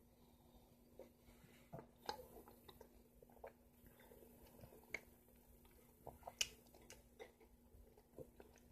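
Faint wet chewing of soft, juicy yellow honeydew melon, with scattered small mouth clicks and smacks.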